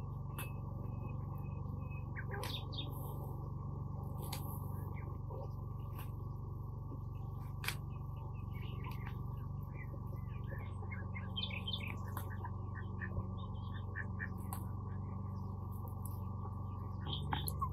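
Small birds chirping and twittering in short scattered calls, with a few sharp clicks and a steady low hum underneath.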